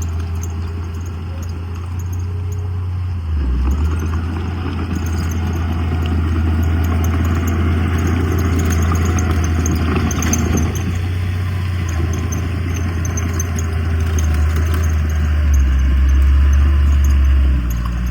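Diesel engine of heavy earthmoving machinery running with a deep, steady drone over a clatter. The engine note shifts about three seconds in and again near the end, where it grows louder.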